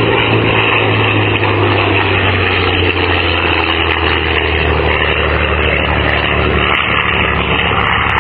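Supermarine Spitfire's V12 piston engine running steadily in flight, with propeller noise.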